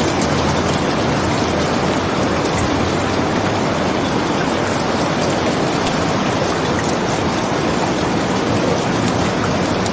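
Steady rain, an even, dense hiss with faint scattered ticks.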